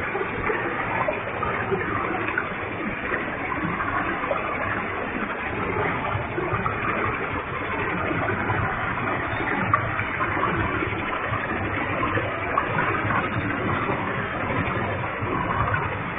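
Waterfall with a heavy flow of water pouring and splashing, a steady dense rush.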